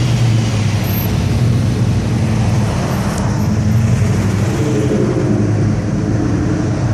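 Classic car's engine running at a slow cruise as it passes, a steady low note with no revving.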